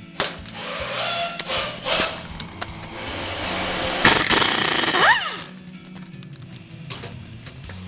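Power tool driving a 13 mm swivel socket, backing out transmission extension-housing bolts in several bursts. The loudest run is about four seconds in and ends in a falling whine as the tool spins down. Background music plays throughout.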